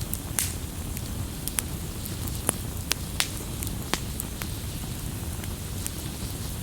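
Campfire crackling: irregular sharp pops and snaps over a low, steady rumble of the burning fire.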